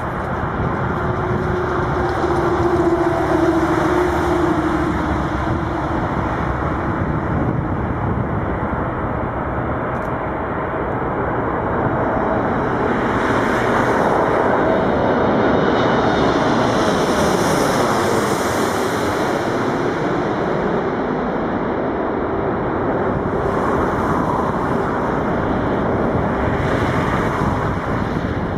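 Boeing 747-8 Freighter's four GEnx turbofan engines heard as the jet comes in low and lands, a loud, steady jet noise with tones sliding down in pitch. It swells to its loudest a little past the middle.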